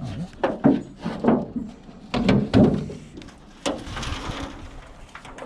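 Metal plant pots being picked up and handled, giving a series of clunks and knocks with a short low ring after each. The loudest are just under a second in and about two and a half seconds in.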